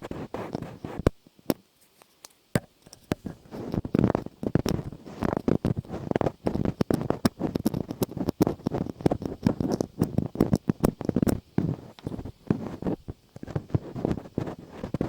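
Close-miked ASMR trigger sounds: irregular rubbing and scratching with many sharp clicks, stopping briefly about a second in, then carrying on.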